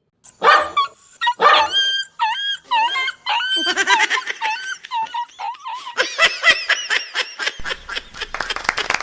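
A dog barking, about one bark a second at first, then a quick run of high yelps and whimpers that comes faster toward the end.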